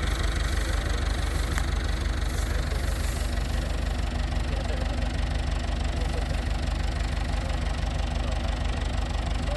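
Combine harvester's diesel engine running steadily with a fast, even low throb.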